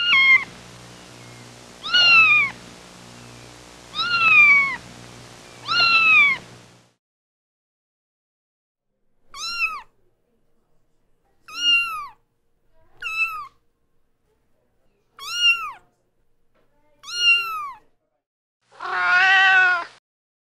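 Kittens meowing repeatedly. First comes a series of four arching meows about two seconds apart, then five short, high-pitched mews with pauses between them, and a longer, lower meow near the end.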